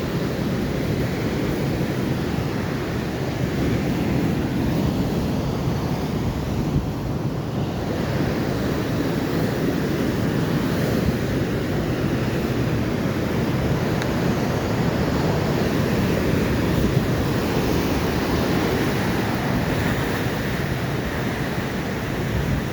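Ocean waves washing onto the shore in a steady, gently swelling rush, with wind buffeting the microphone.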